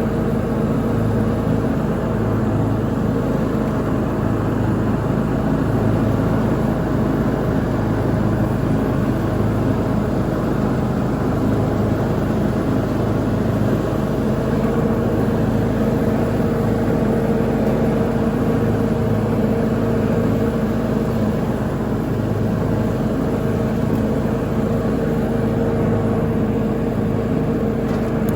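Lawn mower engine running steadily at a constant speed while mowing, with an even drone that holds the same pitch throughout.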